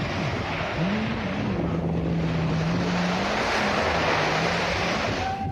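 Wind on the microphone and surf, with a boat or jet ski engine droning low. The engine's pitch rises about a second in, then holds steady.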